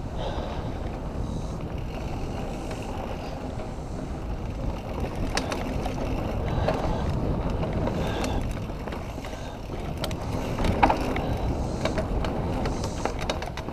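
Mountain bike being ridden over a dirt trail: a steady low rumble of tyres rolling and wind on the microphone, with scattered clicks and rattles from the bike and a louder knock about eleven seconds in.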